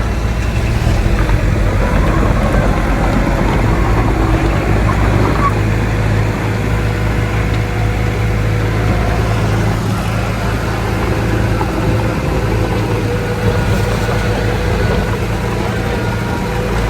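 Heavy diesel earthmoving machinery running steadily under load, a low engine rumble with a steady whine above it that fades in the middle and comes back near the end.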